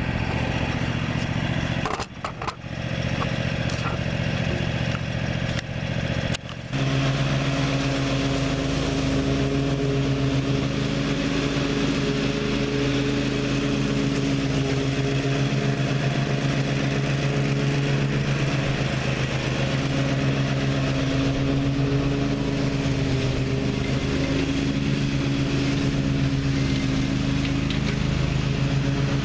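Gravely ZTx 42 zero-turn mower running, with brief dips in level in the first few seconds. About seven seconds in it settles into a steady, louder drone as mowing gets under way.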